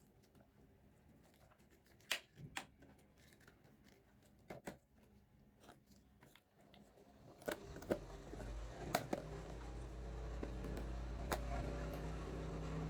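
Small plastic toy pieces being handled and set down, giving scattered sharp clicks and taps. About eight seconds in, a steady low hum starts up and runs beneath the clicks.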